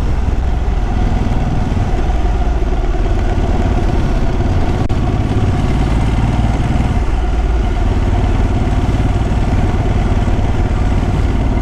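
Ducati sport bike's V-twin engine running steadily at low road speed, with no revving.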